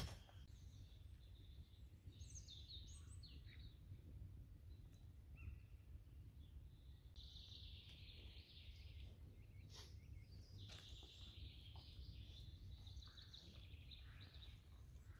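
Faint birdsong: several short runs of high calls a few seconds apart, over a low steady background rumble.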